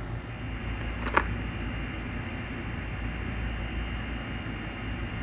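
Steady whirring hum of a fan, with one sharp click about a second in and a few faint ticks after it.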